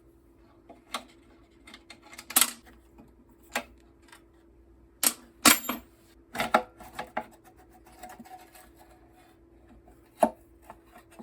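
Hand tools and bolts clicking and knocking on metal as two 3/8-inch bolts are taken off a Tecumseh mower engine: irregular sharp clicks, about a dozen, over a faint steady hum.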